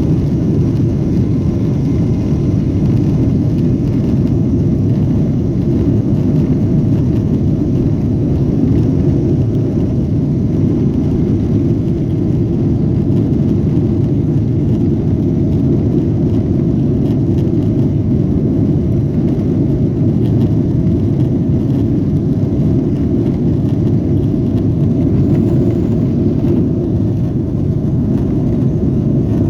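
Boeing 777-200ER airliner noise heard from inside the cabin during takeoff: a loud, steady low rumble of the engines and airframe that holds even throughout.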